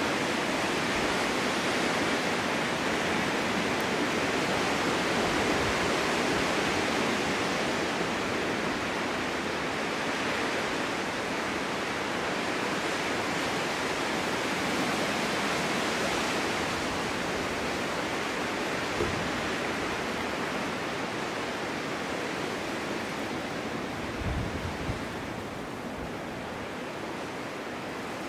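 Snowstorm wind blowing steadily: a dense hiss that swells and eases slowly, with a few brief low thumps of wind buffeting in the latter half.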